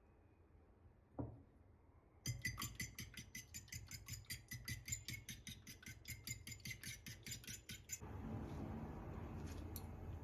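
Rapid, regular clinking of a kitchen utensil against glass or dishes, about five strokes a second for several seconds, after a single click. Near the end it gives way to a steady hiss.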